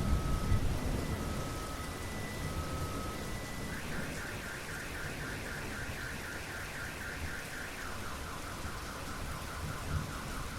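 Steady heavy rain with the last of a thunder rumble at the start. A car alarm sounds through it: first slow alternating two-note beeps, then about four seconds in a fast warble at about four cycles a second, then a faster chirp near the end.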